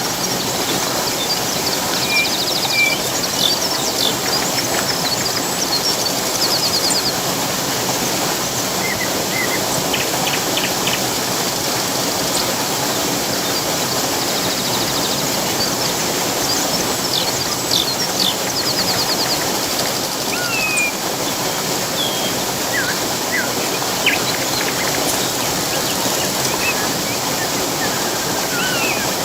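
Rushing water, a steady even rush, with birds calling over it: scattered chirps, short rapid high trills every few seconds and a few quick sweeping notes.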